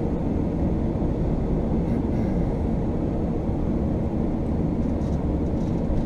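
Steady low road and engine rumble heard from inside the cabin of a moving vehicle.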